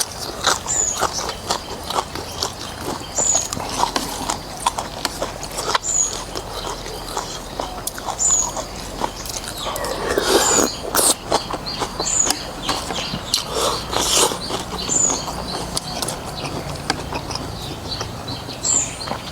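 Close-up eating sounds of noodles in beef soup: wet chewing, lip smacks and slurps, with a louder slurp about ten seconds in.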